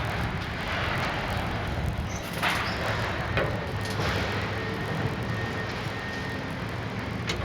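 A steady low engine drone with a noisy haze over it, and a few short knocks here and there.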